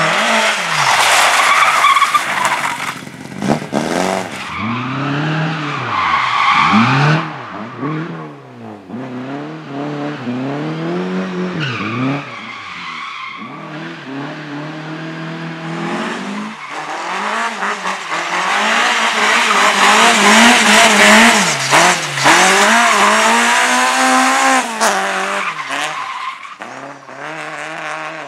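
Race car driven hard through a slalom course: the engine revs up and drops back again and again as it accelerates, lifts and brakes between the gates. There are stretches of tyre squeal and skidding, heaviest near the start and again past the middle.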